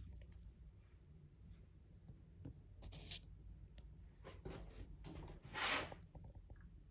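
Faint handling noises of scrapes and rubs, with a short scrape about three seconds in and a louder one about five and a half seconds in.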